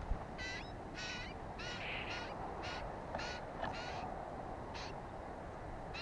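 Lesser whitethroat giving short, harsh calls, about two a second at first and then more spaced out, over a steady low background rumble.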